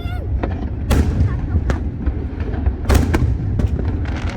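Fireworks display: a string of sharp bangs from shells bursting, the strongest about a second in and near three seconds in, over a constant low rumble.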